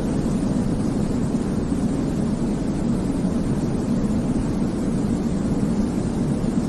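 Steady, deep white noise for baby sleep: an even, unbroken rushing hiss weighted toward the low end, with no rhythm or changes.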